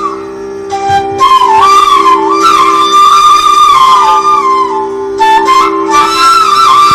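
Background music: a flute melody with ornamented, sliding notes over a steady drone.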